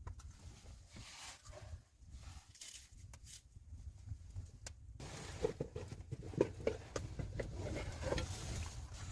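Scattered crunches and knocks over a steady low rumble, becoming denser and louder after an abrupt change about halfway through.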